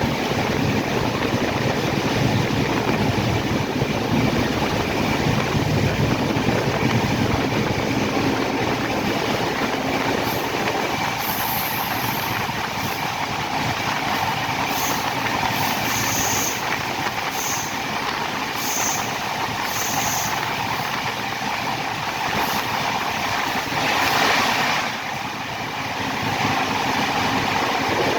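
Train running along the track: a steady rumble of wheels on rails, with a string of short, high squeaks about halfway through.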